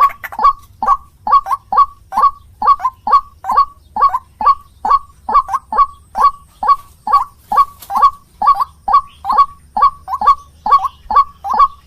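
White-breasted waterhen (ruak-ruak) calling, a loud, steady run of short harsh notes, about two to three a second, some in quick pairs.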